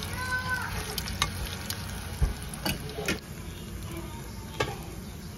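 Plantain slices deep-frying in oil with a steady sizzle, while a spatula turning the pieces knocks and scrapes against the pan in a few sharp clicks.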